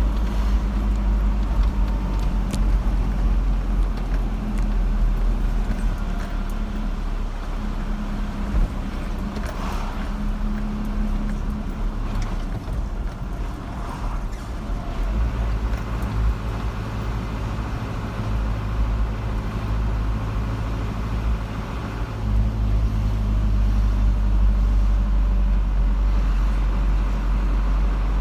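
Car driving along a road: a steady low rumble of engine and tyres, with the engine note shifting a few times and growing slightly louder in the last few seconds.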